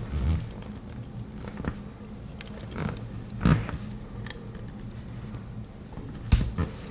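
Scattered clicks and taps of a Victorinox Farmer X Alox Swiss Army knife being handled and its tools worked open, with one louder knock near the end.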